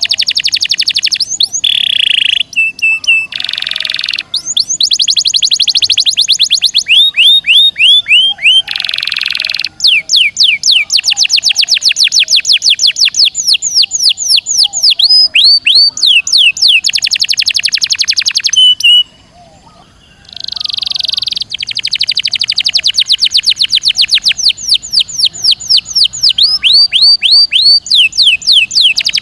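Domestic canary singing a long rolling song: fast trills of rapidly repeated falling notes, broken now and then by harsher buzzy notes, with a brief pause about two-thirds of the way through.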